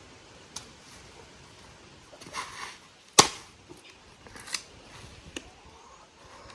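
Sticks and branches being set onto a bonfire pile: a few sharp knocks of wood on wood, the loudest about three seconds in, with short bursts of rustling.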